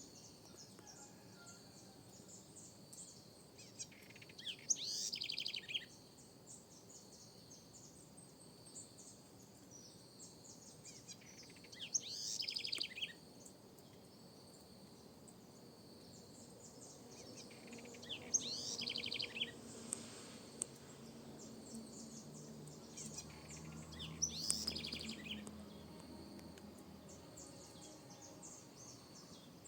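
Southern house wren (corruíra) singing: four bright, bubbling songs, each a second or two long, that start high and drop into a rapid trill, repeated about every six to seven seconds.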